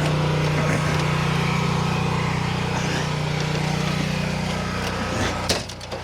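A small engine running steadily at an even speed. About five and a half seconds in there is a click and the sound briefly drops off.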